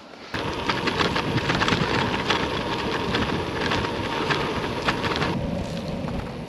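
Gravel bike riding over frozen, rough ground: steady tyre and wind noise with many sharp rattles and knocks from the unsuspended bike. It starts suddenly just after the beginning.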